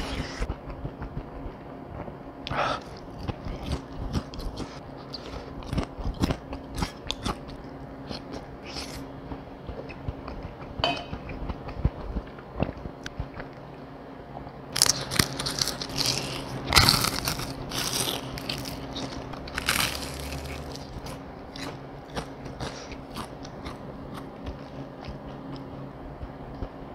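Close-up chewing and crunching of crispy fried chicken, with scattered sharp crunches and a dense run of loud crunchy bites from about 15 to 20 seconds in. A faint steady hum runs underneath.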